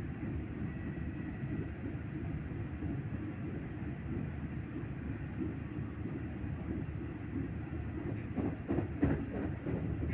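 Express train running: a steady low rumble, with a quick run of knocks near the end.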